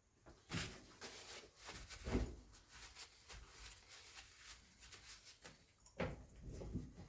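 Scattered clicks and knocks of tools and parts being handled in workshop work, with louder thuds about half a second, two seconds and six seconds in.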